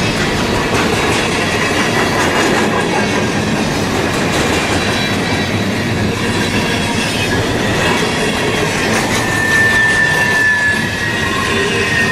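Freight cars rolling past at steady speed: a continuous rumble and wheel clatter on the rails, with thin squeals from the wheels. One squeal rings out more strongly about three quarters of the way through.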